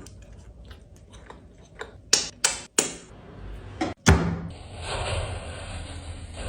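Several sharp knocks and clicks, like kitchen utensils striking pots or a board, then a steady hiss from about four seconds in.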